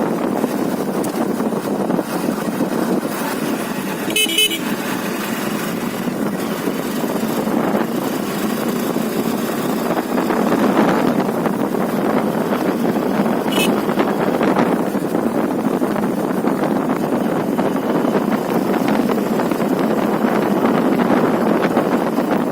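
Steady wind and running noise from a motorcycle on the move. A short horn toot sounds about four seconds in, and another brief one about halfway through.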